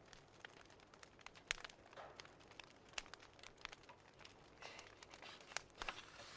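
Faint crackling wood fire: irregular small pops and snaps, with a sharper pop about a second and a half in.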